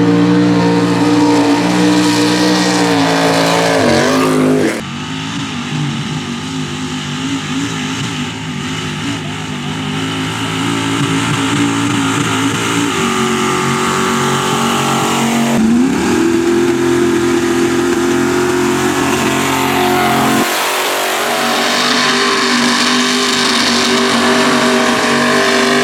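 Mega mud truck engines running hard at high revs, cut together from several shots. In one of them the engine pitch climbs as it revs up, about two thirds of the way through.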